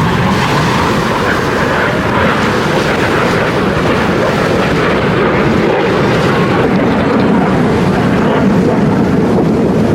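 Aircraft engine noise from a plane flying by, loud and steady throughout.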